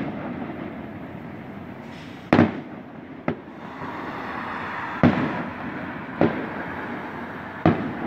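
Aerial firework shells bursting at a distance: five sharp bangs at uneven intervals, the loudest about two seconds in, over a steady background noise.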